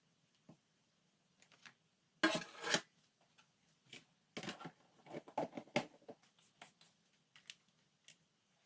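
Hands handling food, wrappers and containers during lunchbox packing: a loud rustle about two seconds in, then a run of light clicks, taps and rustles, with a few single ticks near the end.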